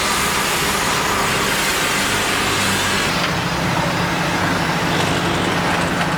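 A heavy diesel engine running steadily with an even low hum.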